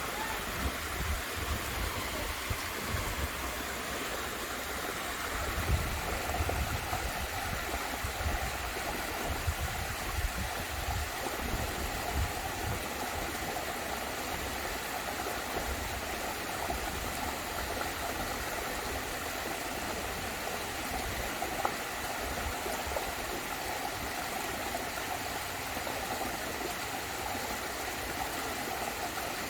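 Steady rush of falling water from a waterfall, with irregular low rumbles during about the first twelve seconds.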